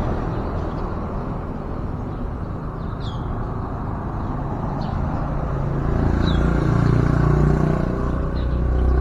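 Steady road-traffic rumble that swells about six seconds in as a vehicle passes, with a few short, high, falling bird chirps now and then.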